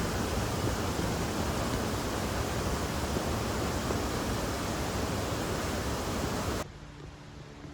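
Waterfall water rushing in a steady, loud roar of white noise, which cuts off abruptly near the end, leaving a much quieter background with a faint steady hum.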